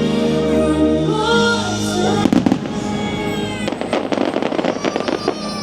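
Fireworks bursting over show music: a quick cluster of bangs about two seconds in, then rapid crackling from about four seconds.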